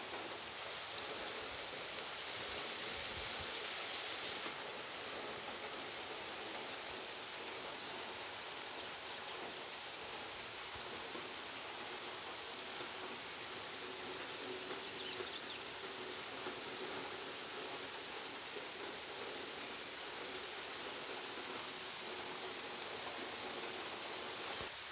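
Rain falling steadily on bare dirt and vegetation.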